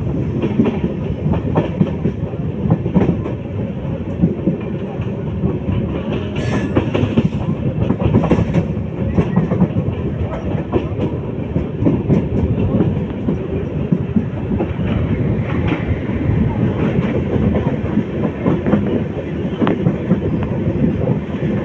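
Moving passenger train running at speed, its wheels clattering over the rail joints in a steady stream of clicks, heard from the train's open door. Near the end an oncoming train passes close alongside on the next track.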